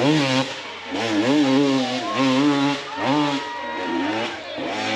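Off-road motorcycle engine revving in repeated throttle bursts, its pitch rising and falling about once a second as it labours up a steep hill climb. Around the middle a steadier engine note holds for about a second.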